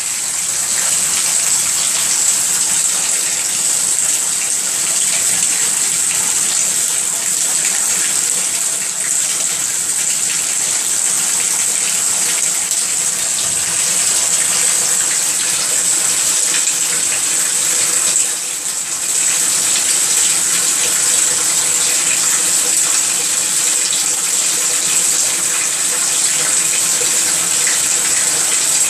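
Tap water running steadily into a bath, with a brief dip about two-thirds of the way through.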